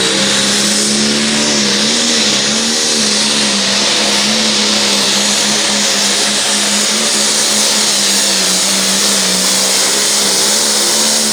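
Pulling-tractor engine held at high, steady revs under full load during a pull, with a strong high hiss over it.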